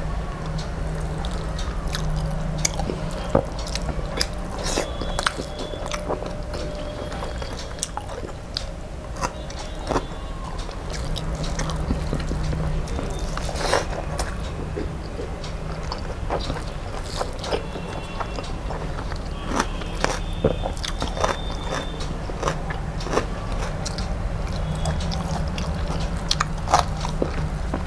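Close-miked chewing and mouth sounds of a person eating rice with stuffed bitter gourd curry by hand: many short wet clicks and smacks, with an occasional crunch.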